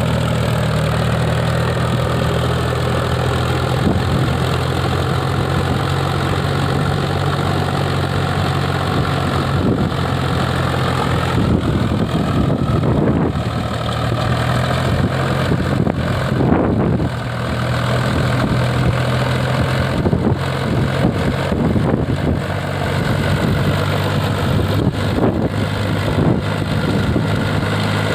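Mahindra 275 Bhoomiputra tractor's three-cylinder diesel engine running steadily, with irregular knocks and rattles over it from about ten seconds in.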